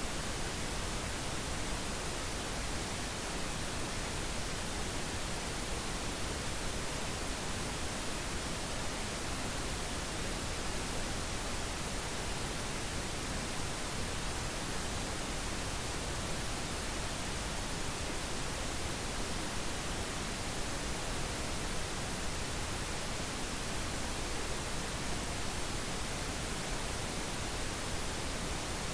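Steady pink noise: an even, unbroken hiss spread across all pitches.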